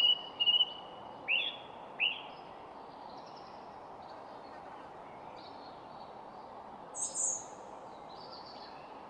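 Birds singing and calling: a run of short whistled notes and a few quick upward-sweeping calls in the first two seconds, a brighter high call about seven seconds in, and fainter distant notes between, over a steady outdoor hiss.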